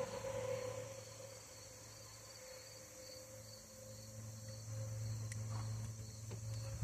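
Faint steady low hum with a thin high-pitched whine over it, and a few small clicks.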